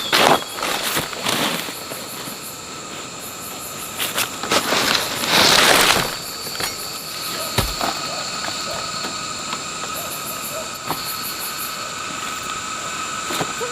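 Insects calling steadily in several high tones, with pulsing chirps later on. About halfway through comes a loud rustling burst, and a sharp knock follows a couple of seconds after.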